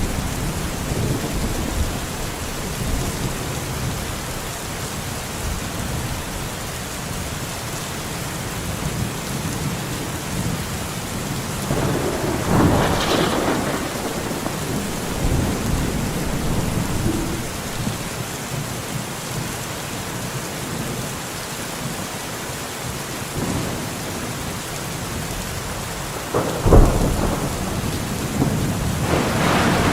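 Heavy rain falling steadily on forest foliage. It swells louder about halfway through, there is a sharp loud crack a little before the end, and another swell follows at the very end.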